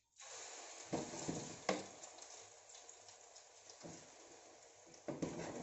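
Egg, broccoli, onion and ham tortilla mixture sizzling in hot oil in a frying pan as it is ladled in; the sizzle starts suddenly and holds steady, with a few sharp knocks.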